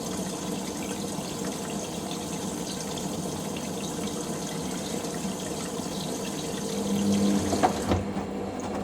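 Water rushing into a Hoover washing machine through the detergent drawer as it fills for the final rinse, flushing in the fabric softener. The inflow cuts off about eight seconds in.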